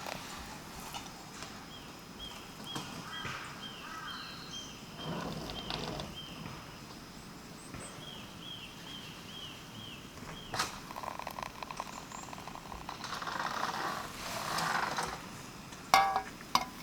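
A small bird singing two runs of quick, evenly repeated high chirping notes, about three a second, with a couple of sharp clicks later on.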